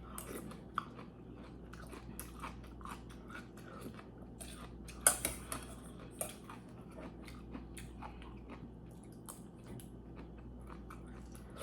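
A person eating close to the microphone: chewing and biting, with a steady run of small wet clicks and smacks and one sharper click about five seconds in.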